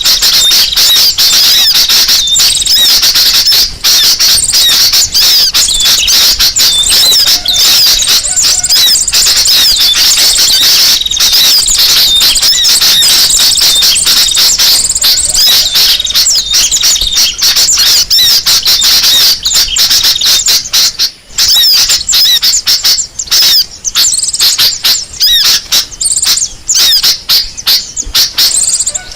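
Bird-lure recording of a noisy flock of small birds: dense, fast, high-pitched chirping and twittering that goes on without a break.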